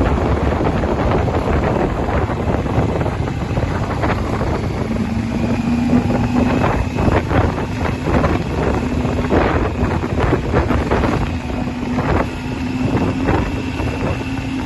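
Motorcycle engine running at a steady pace while riding, with wind buffeting the microphone throughout.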